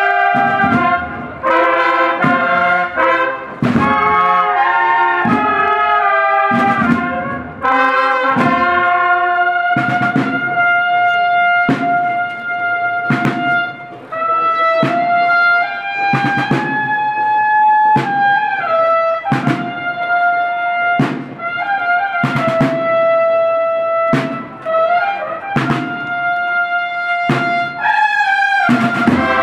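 Brass band with drums playing a march: trumpets and trombones in short phrases at first, then long held notes over a steady drum beat.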